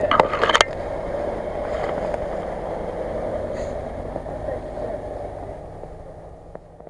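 A Range Rover's engine running as the SUV drives slowly past on a snowy forest track, with a few sharp knocks in the first second. The sound fades away toward the end.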